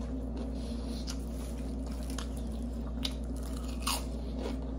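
Close-miked eating sounds: soft, wet chewing of a sub sandwich with a few short mouth clicks and smacks roughly a second apart, over a steady low hum.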